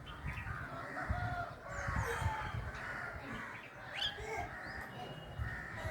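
Birds calling: a busy mix of short chirps, squawks and whistles, some gliding in pitch, over a low rumble.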